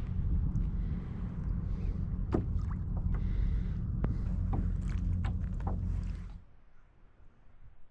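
Low rumble on the microphone aboard a fishing kayak, with a scattered handful of sharp knocks and clicks from the kayak and gear. Both drop away suddenly about six seconds in.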